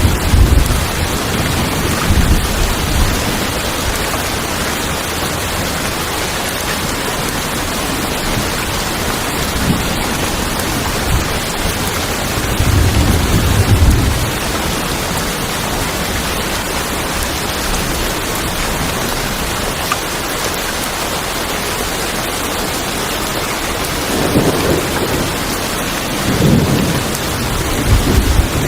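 Steady rain falling on tin roofs, with low rumbles of thunder swelling and fading several times, strongest near the start, midway and near the end.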